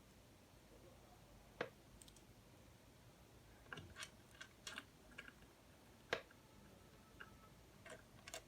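Plastic LEGO Technic pieces clicking as they are handled and pressed together: a scatter of short sharp clicks, the loudest about one and a half and six seconds in, with a cluster of lighter ones in between.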